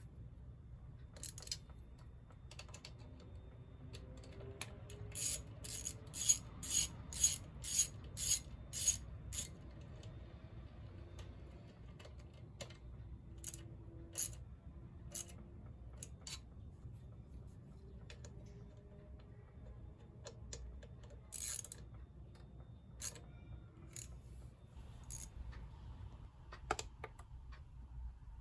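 Sharp metallic clicks of hand tools being worked on a scooter, with a run of about nine evenly spaced clicks at roughly two a second a few seconds in, then scattered single clicks.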